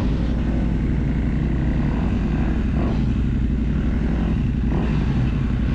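Motorcycle engine running steadily at a fairly constant speed.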